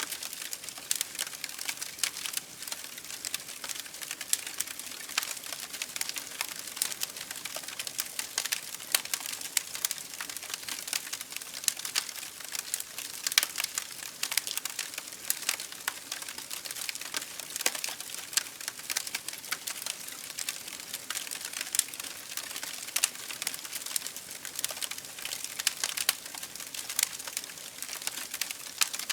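Campfire burning with a steady hiss and a constant scatter of irregular crackles and sharp pops from the burning wood.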